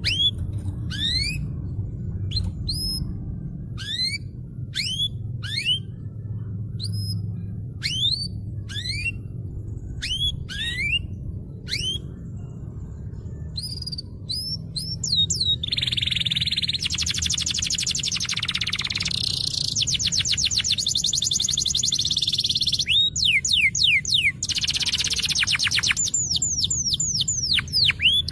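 Domestic canary singing: a string of separate, steeply rising whistled notes, then from about halfway a long run of fast trills, and rising notes again near the end.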